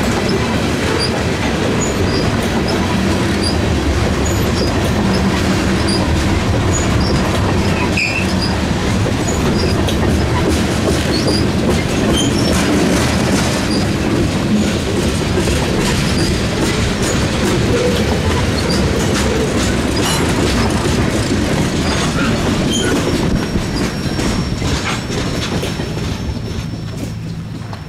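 Freight train cars rolling past on the rails: a steady roar of wheels with rhythmic clicking over the rail joints and some wheel squeal. The sound starts to fade near the end as the train moves away.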